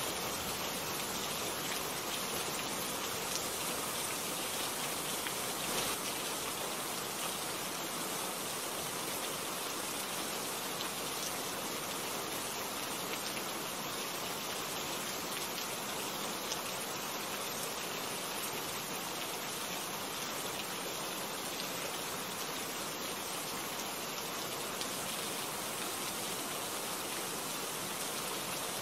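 Steady rain falling, an even hiss of many drops, with a few sharper drop ticks now and then.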